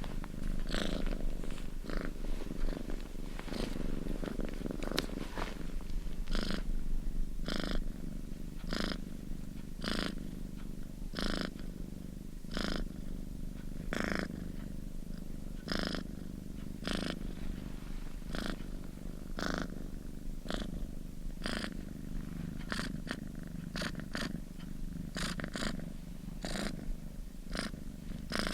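Domestic cat purring close up, steady and continuous, its rhythm rising and falling with each breath, about one breath cycle a second.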